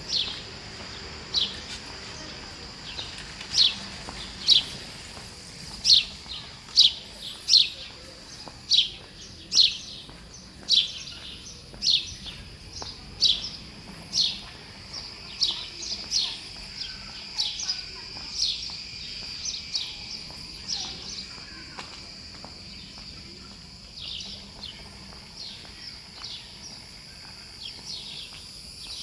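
A bird repeating short, sharp, high chirps, about one or two a second, over a steady high-pitched hum; the chirps are loudest in the first half and grow fainter later.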